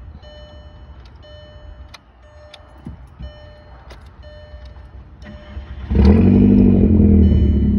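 A car's repeating electronic chime sounds for several seconds. About six seconds in, the Mk4 GTI's 1.8-litre turbocharged four-cylinder engine starts with a sudden loud flare and settles into a steady idle.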